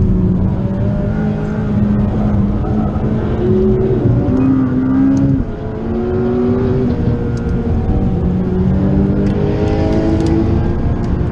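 Inside the cabin of a McLaren 540C tuned to Stage 1 (about 650 hp), its twin-turbo V8 running hard on track. The engine note climbs and drops repeatedly with throttle and gear changes, with a brief lift off the throttle about five and a half seconds in.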